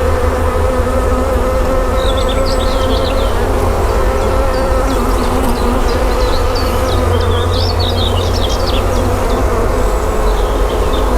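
Honeybees buzzing around an open hive, a steady hum over a low rumble, with short high chirps joining in about two seconds in.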